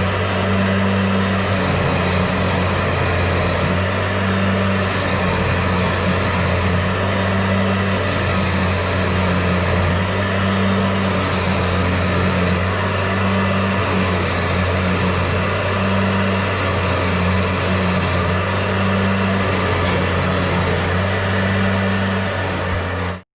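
A machine motor running steadily with a low hum under a rushing noise that swells in the high end every second or two; it stops suddenly near the end.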